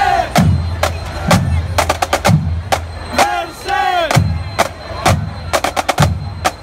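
High school marching band drumline playing a cadence: sharp snare drum strokes over bass drum hits about once a second. Band members shout along in the middle, about three to four seconds in.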